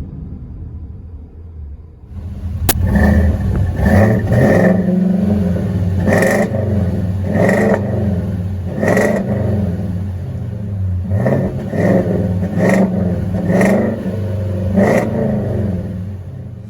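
Ford 7.3 L gas V8 through a Flowmaster 50 Series true dual exhaust, idling low and steady, then revved in a dozen or so quick throttle blips, each rising and dropping back to idle.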